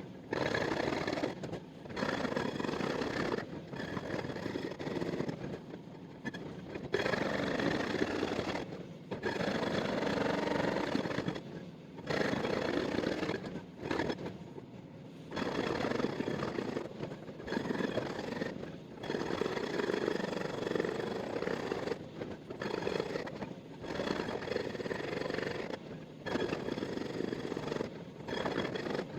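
Excavator-mounted hydraulic breaker hammering in stretches of a few seconds, broken by short pauses.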